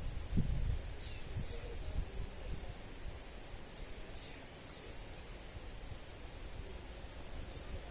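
Small birds chirping in short, high, thin calls scattered throughout, a little louder about five seconds in, over a steady background hiss. A few low thumps come in the first second.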